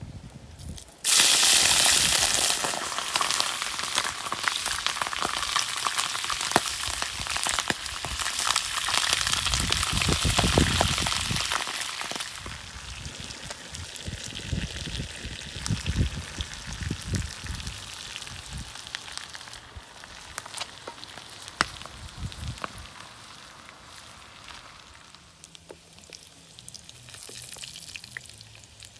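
Chopped duck organs hitting hot oil in a frying pan, setting off a loud sizzle about a second in that slowly dies down as the pieces cook. Sharp clicks come from bamboo chopsticks stirring in the pan.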